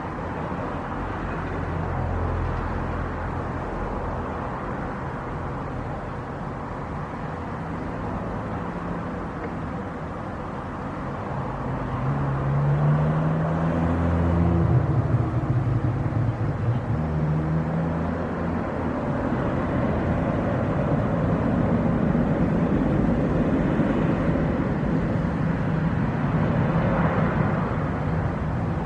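Jet airliner engines running at the airport: a continuous rushing noise with a low engine hum, growing louder about twelve seconds in and staying loud.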